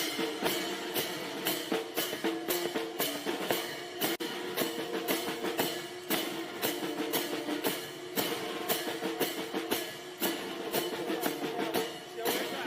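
Military band playing a march: a steady drum beat of bass and snare strokes under sustained held notes from wind instruments.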